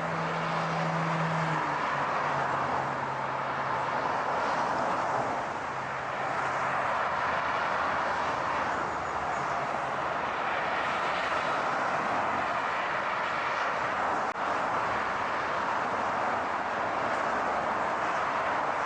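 Steady car noise, an even rush of tyres and engine, with a low engine hum that drops in pitch about two seconds in and fades out around ten seconds in.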